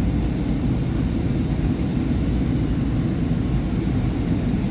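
Steady low rumble and hum inside a SEPTA Market-Frankford Line subway car standing at a station with its doors open.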